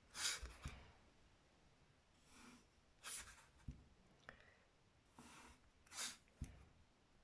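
Faint pencil strokes drawn along a ruler on paper: a series of short scratchy swishes, with a few light clicks of the ruler or pencil being set down.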